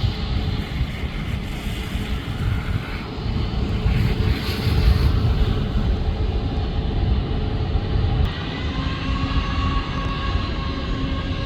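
Boeing 737 MAX 8's CFM LEAP-1B turbofan engines running with a steady low rumble. About two-thirds of the way in, whining tones appear and start to rise as the engines spool up.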